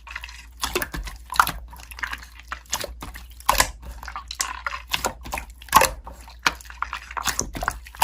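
Slime being squeezed and worked by hand, making irregular small clicks and pops.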